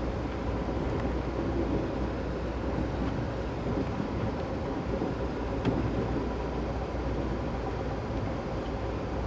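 Steady rumble of a moving passenger train heard from on board, wheels running on the rails, with a faint click about halfway through.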